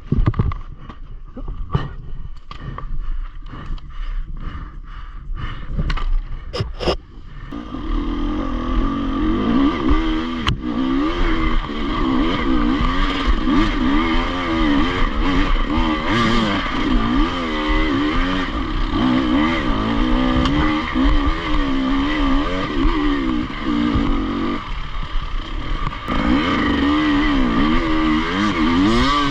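A run of sharp knocks and clatters, then from about seven seconds in an enduro motorcycle engine running, its revs rising and falling unevenly.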